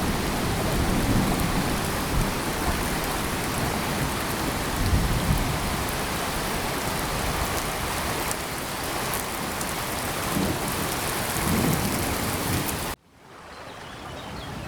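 Heavy tropical rain falling steadily, with low thunder rumbling underneath. About thirteen seconds in the sound cuts out abruptly and then fades back in.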